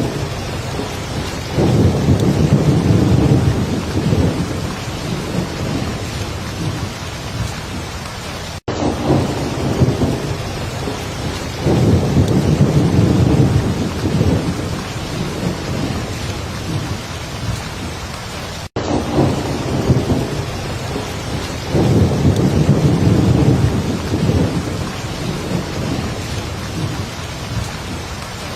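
Heavy rain pouring steadily, with a low rumble of thunder that swells and fades three times, about every ten seconds. The same short recording repeats, cutting out for an instant each time it restarts.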